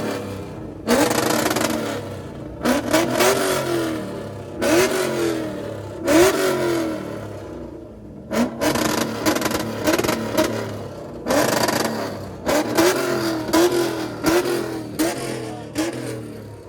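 A car engine revved hard again and again, more than ten quick blips, each rising sharply in pitch and falling back as the throttle is released.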